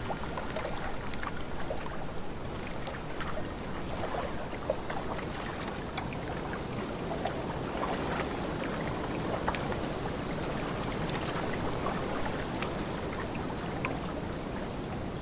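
Small lake waves lapping and splashing, with a steady wind behind them. Many little splashes and ticks come through the constant wash.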